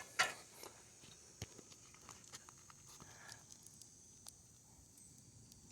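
Faint, scattered light clicks and taps on asphalt roof shingles, with a brief rustle just after the start.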